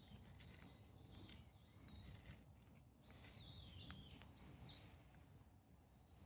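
Near silence: faint outdoor background with a few faint bird chirps sliding down in pitch about three seconds in.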